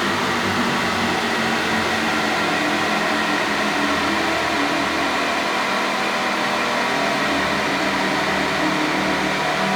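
Ducati Panigale V4 Speciale's V4 engine running steadily through an Akrapovic titanium full race exhaust, holding an even engine speed with no revving.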